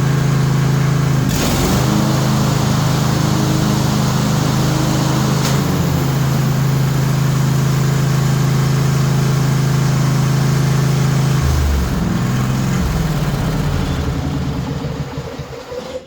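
Craftsman LT1000 lawn tractor's 21 hp Briggs & Stratton Intek engine running steadily, with two sharp clicks early on. About twelve seconds in the sound changes and dies away over the last few seconds as the engine winds down.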